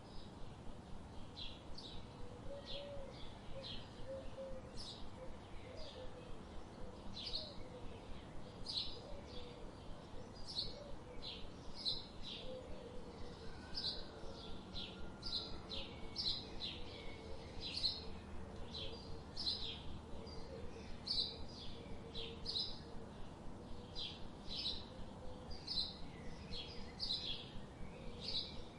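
Songbirds chirping in short, high notes repeated about twice a second, over a steady low background hiss.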